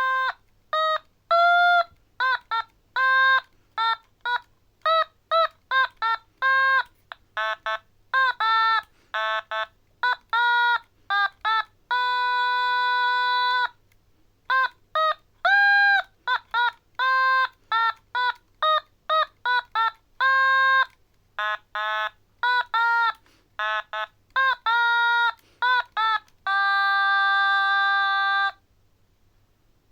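A simple solo melody of short, separate high notes, with two long held notes, one in the middle and one near the end, performed by an amateur.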